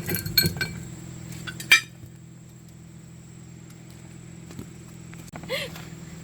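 Metal parts and tools clinking against each other: a quick cluster of clinks at the start, then one louder clink just under two seconds in, over a steady low hum. A brief gliding sound follows near the end.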